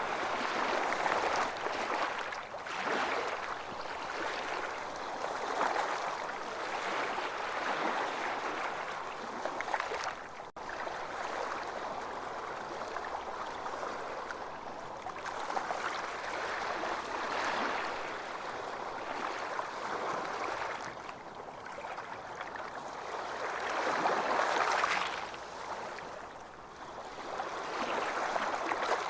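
Ocean waves washing onto a beach, a steady wash of surf that swells and recedes every few seconds, with one fuller swell a little before the end.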